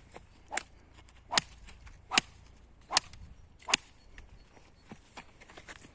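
Five sharp swishing strikes at an even pace, about one every 0.8 seconds, then a pause of about two seconds, made while a campfire is being put out.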